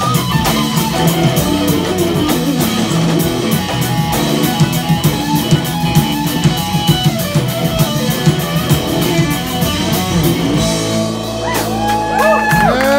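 A live blues-rock band plays, with electric guitar over a steady drum-kit beat. About eleven seconds in the drum hits stop and the band holds a long chord while notes slide up and down above it.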